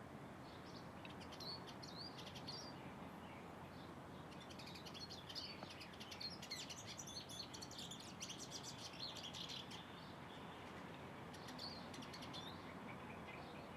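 Small birds chirping and twittering in quick bursts, busiest in the middle, over a faint steady background hiss.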